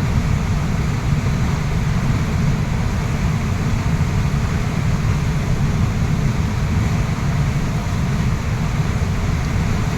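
Waterfall rushing steadily: a dense, unbroken wash of water noise, heaviest in the low end.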